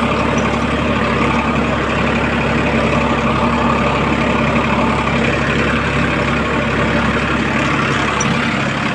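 Farmtrac tractor's diesel engine running steadily.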